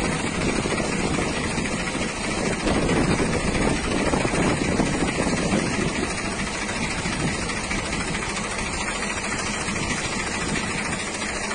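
Strong windstorm wind blowing as a steady rushing noise that swells a little a few seconds in, buffeting the microphone.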